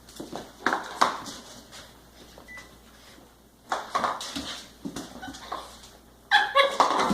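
Ice cube clattering and skidding on a hard floor as a puppy bats and chews at it, in a few separate clicks and knocks. Near the end a short, high-pitched puppy whine.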